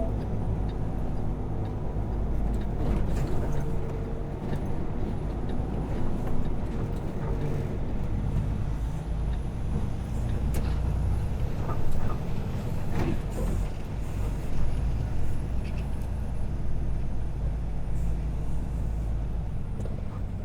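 Semi truck's diesel engine running steadily at low speed while manoeuvring, with a few short knocks and clicks.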